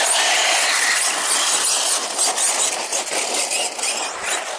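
Electric RC car running hard close by: the high whine of its brushless motor and drivetrain, mixed with a steady hiss, rising and dipping slightly with the throttle.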